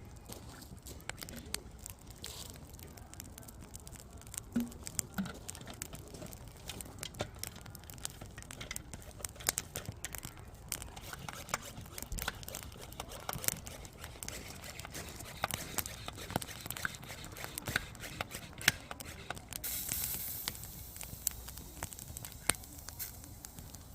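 Campfire of burning firewood crackling, with many sharp irregular pops, and a short rise of hissing about twenty seconds in.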